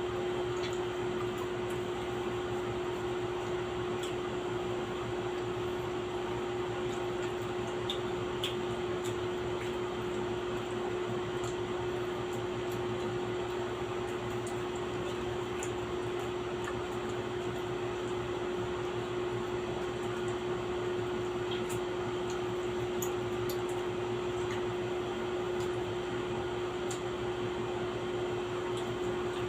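Steady motor hum with one strong, unchanging tone throughout, overlaid by a few faint, scattered clicks.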